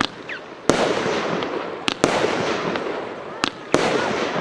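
A 25-shot, 30 mm fireworks battery firing. A sharp bang comes roughly every second, two of them in quick pairs, and each is followed by a long, fading noisy wash. A short rising whistle sounds just after the start.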